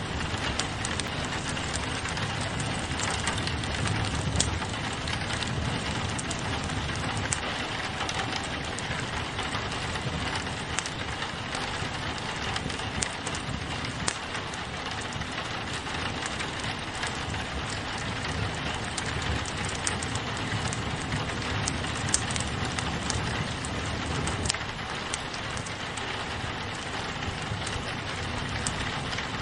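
Steady rain falling on a window pane, mixed with a wood fire crackling, its small sharp pops scattered through the even hiss of the rain.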